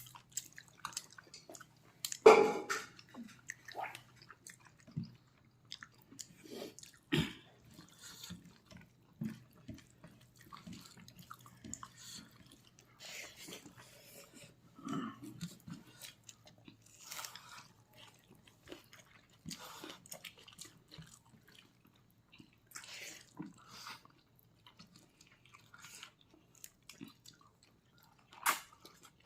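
Close-miked chewing of pork leg: wet smacking and clicking mouth sounds scattered irregularly, with a few louder sharp knocks, the loudest about two seconds in. A faint low hum runs under the first half.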